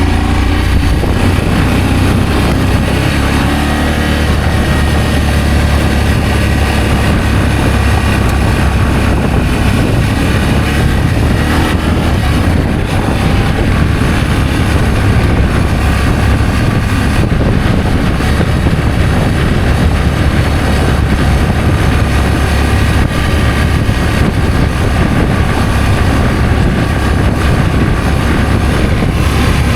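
Adventure motorcycle being ridden at a steady pace: the engine running with a steady rumble under an even rush of noise.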